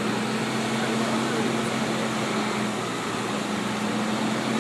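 A steady engine hum with a constant low drone over an even hiss.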